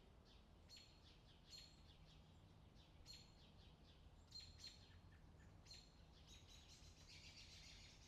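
Faint outdoor summer ambience of birds chirping: short high calls repeated every second or so, growing into a busier run of chirping near the end, over a low steady hum.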